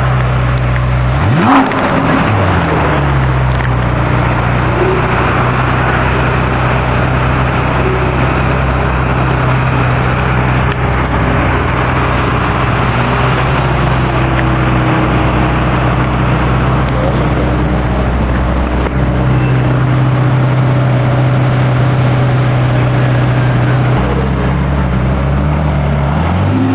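V8 sports car engine running at a steady idle, with a sharp rev about a second and a half in and another quick rising rev near the end.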